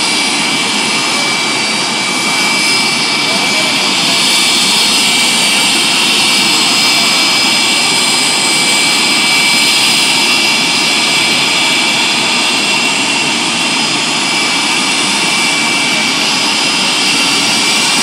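Pratt & Whitney JT8D turbofan jet engine running steadily on a ground test run after being rebuilt: a loud, even rush with steady high-pitched whines.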